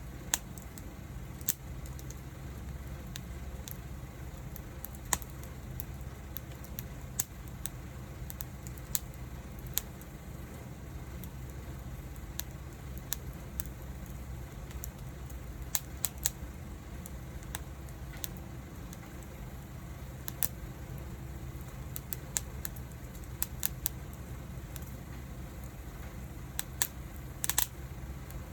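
A wood fire crackling, with irregular sharp pops and snaps from the burning wood over a low steady rumble of the flames.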